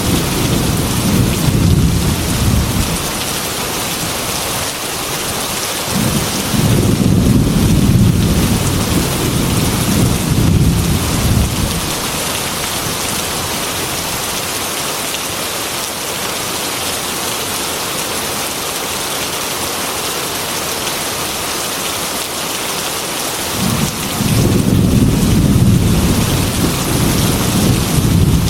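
Heavy rain falling steadily, with low rolling thunder that rumbles three times: at the start, for several seconds from about six seconds in, and again near the end.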